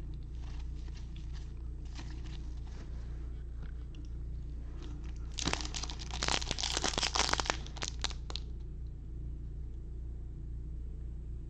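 A baseball-card pack wrapper crinkling and tearing open for about three seconds, starting about halfway through, after a few seconds of faint card handling.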